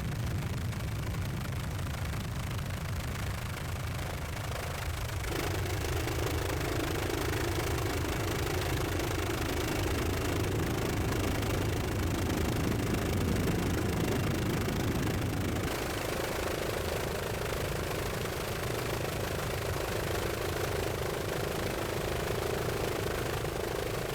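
Steady drone of a helicopter's engine and rotor heard from inside the aircraft, with a change in its tone about five seconds in and again past the middle.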